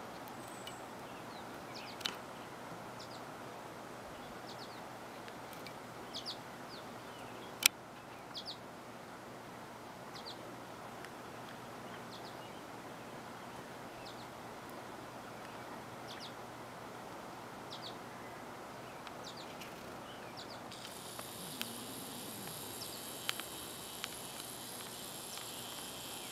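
Outdoor ambience: scattered short high bird chirps over a steady low background noise, with one sharp click about eight seconds in. A high hiss joins for the last few seconds.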